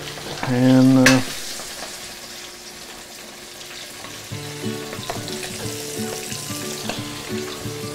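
Chicken pieces deep-frying in Crisco shortening in a deep cast-iron skillet, the fat held at about 360–380 °F: a steady sizzle and crackle of hot frying fat.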